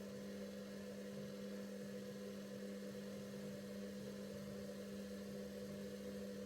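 Bauknecht WA PURE ST 14 FLD washing machine running its steam self-cleaning program: a steady machine hum, one low tone with a few higher ones, over a light hiss.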